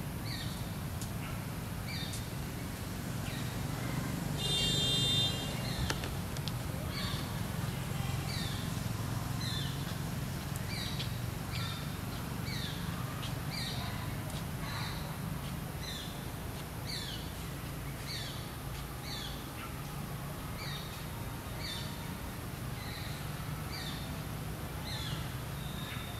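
A bird calling over and over, a short falling chirp about once a second, over a steady low background rumble. About four seconds in, a brief louder squeal rises above it.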